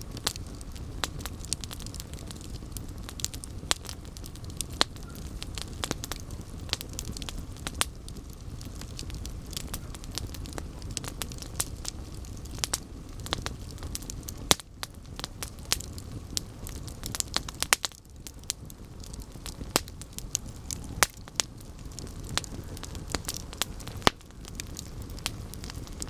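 Campfire burning, with a steady low rumble of the flames and many sharp, irregular crackles and pops from the burning wood.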